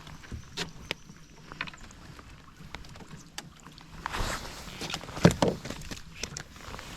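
Scattered taps and knocks in a small fishing boat, with a louder stretch of rustling and thumps from about four seconds in.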